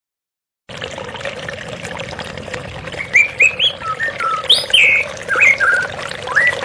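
Steady sound of flowing water, starting just under a second in after a moment of silence. A songbird sings over it from about three seconds in with short, loud whistled and chirping notes, many sliding upward in pitch.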